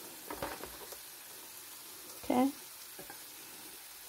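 Chicken and broccoli sizzling steadily in a frying pan, with a brief voice sound a little past halfway.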